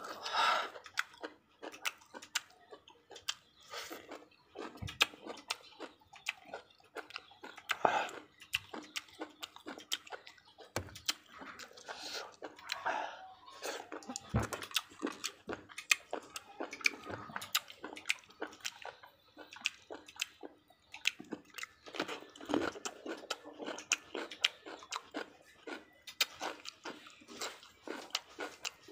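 A man eating: chewing and crunching raw cucumber and other fresh food, with frequent wet mouth smacks and sharp clicks.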